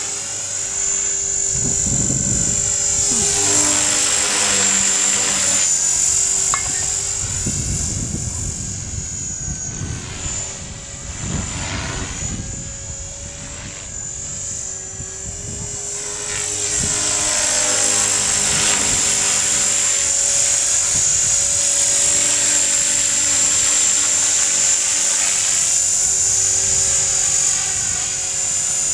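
Electric T-Rex 450-class RC helicopter in flight: a high, steady motor whine with rotor noise that swells and fades as it moves about, quieter through the middle.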